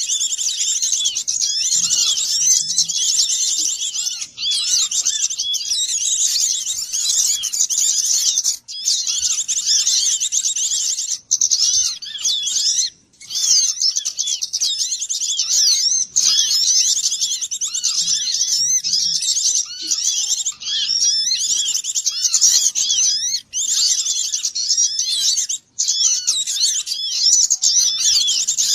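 A dense, noisy chorus of many small songbirds chirping and twittering over one another, a lure recording for small birds; the chatter is high-pitched and unbroken apart from a few brief drop-outs where the recording is cut.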